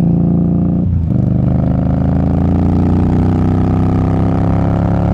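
Indian Scout Bobber's V-twin engine under way: a brief gear change about a second in, then the engine pulls hard, its pitch rising steadily as the motorcycle accelerates.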